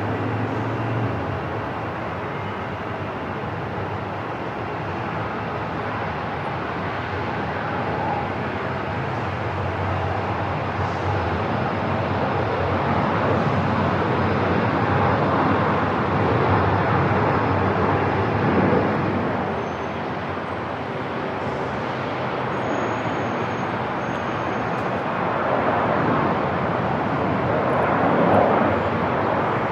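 Airport ambience: a steady rush of aircraft noise, swelling gently in the middle and again near the end.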